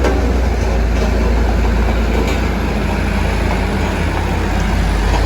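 Heavy diesel vehicle engine running with a steady low rumble, mixed with road noise.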